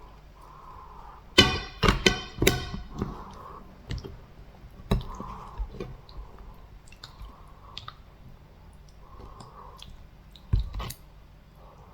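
Close-miked eating sounds: chewing with wet mouth clicks and smacks, and a cluster of louder mouth sounds about one and a half to three seconds in, and another shortly before the end.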